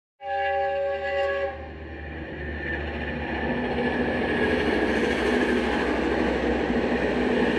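A train horn sounds one short chord, cutting in abruptly. Then the rumble and wheel noise of a train grows steadily louder as it comes by.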